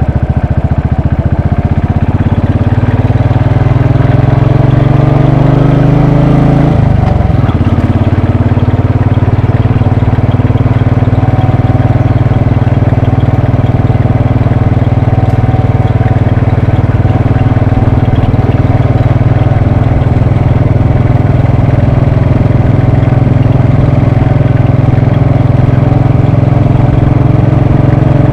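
Royal Enfield Bullet 500's single-cylinder engine on the move. Its pitch rises steadily for about seven seconds, drops sharply at what sounds like a gear change, then holds steady at a constant cruising speed.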